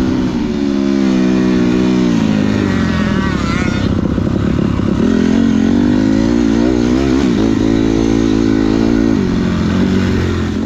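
Motocross dirt bike engine revving hard, its pitch climbing and dropping again and again as the rider accelerates and shifts.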